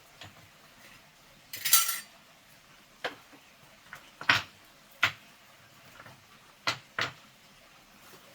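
Hard objects clinking and knocking together: a short scraping rattle, then five sharp separate knocks spread over the next few seconds.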